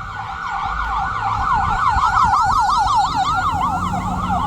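Ambulance siren on a fast yelp, its pitch sweeping up and down several times a second.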